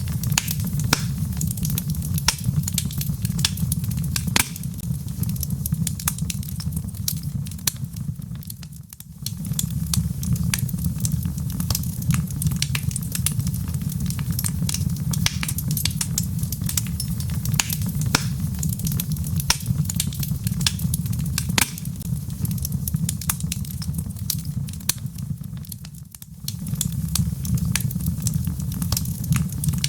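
Log fire in a fireplace crackling, with frequent sharp pops and snaps over a low steady rumble. The rumble drops away briefly twice, about 9 and 26 seconds in.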